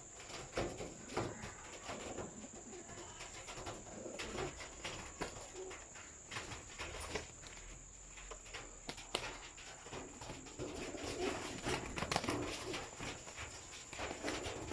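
Birds fighting: a scuffle of frequent sharp clicks and knocks mixed with low calls, which grow busier about two-thirds of the way through.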